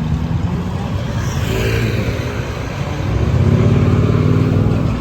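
Enduro motorcycle's engine revving and pulling away, pitch shifting, then growing louder about three seconds in.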